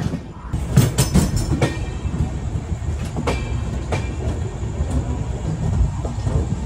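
Mandovi Express passenger train rolling into a station: a steady low rumble from the coach, with irregular wheel clacks over rail joints and points.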